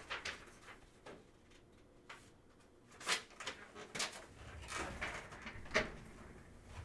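Faint handling of trading-card packs and cards on a table: a few scattered short clicks and crinkly rustles, about six in all.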